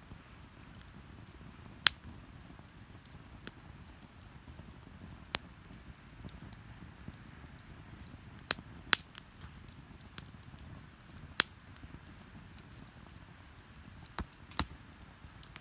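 Wood bonfire crackling, with several sharp pops a few seconds apart, over a low steady wash of surf.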